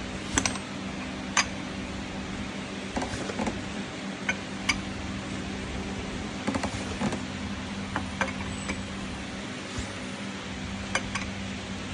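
A steady machine hum with scattered light clicks and knocks, like parts or objects being handled.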